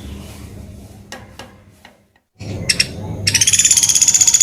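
Pelatuk beras woodpecker giving a loud, rapid rattling call of fast, high pulses, which starts about two-thirds of the way in after a few faint clicks and a moment of silence.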